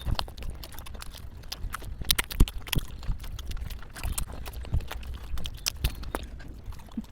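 Close-miked eating sounds: irregular crunching and chewing clicks, several a second, with a few louder crunches.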